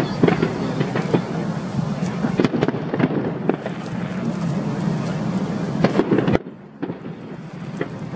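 Aerial fireworks display: a dense run of bangs and crackles over a continuous rumble. The sound drops off suddenly about six seconds in, then fresh bangs start again near the end.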